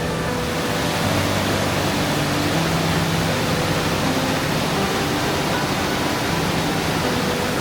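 Steady, full rush of water cascading down a mountain valley stream. Soft background music with held, plucked-sounding notes plays faintly under it.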